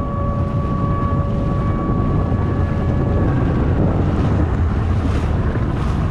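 Sea-Doo RXP-X 300 jet ski running under way, its engine and rushing water buried in heavy wind buffeting the microphone. A steady whine holds for about the first three seconds, then fades.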